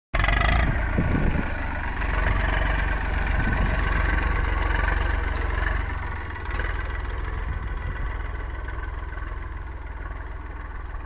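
Eicher 380 tractor's diesel engine running steadily with a low rumble, growing somewhat quieter from about six seconds in.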